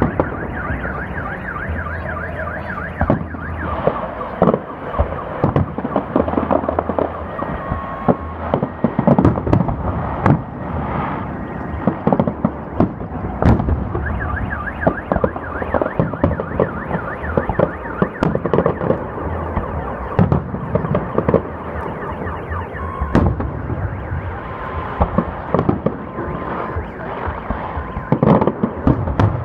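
Fireworks salute going off: a steady run of sharp bangs over dense crackling, with short wavering tones here and there.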